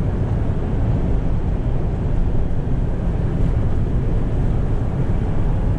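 Steady low drone of a 1988 Toyota Hiace fire truck under way, heard from inside the cab. The sound is its 1.8-litre 2Y four-cylinder gasoline engine running smoothly, mixed with road and tyre noise, with no sudden changes.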